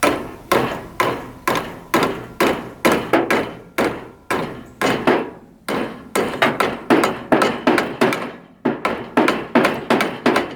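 Hammer blows, about two a second with a few quicker runs, beating on a stuck part of a John Deere 1010 tractor to drive it loose.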